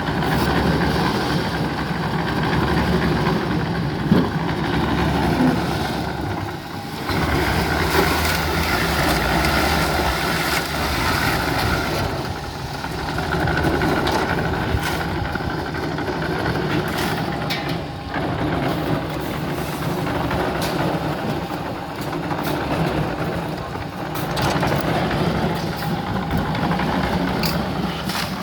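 Engine of construction machinery running steadily, with occasional short knocks or clanks.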